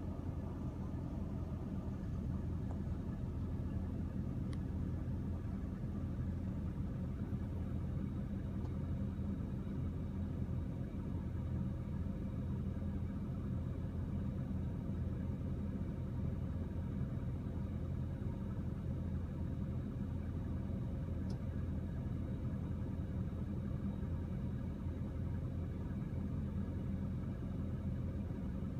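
John Deere 4066R compact tractor's diesel engine running at a steady speed while it works a hay tedder, with no change in revs.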